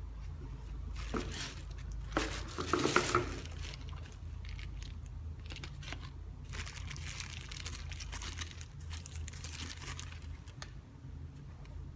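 Sneakers and their packaging being handled, crinkling and rustling, with the loudest burst about two to three seconds in and more rustling later, over a steady low hum.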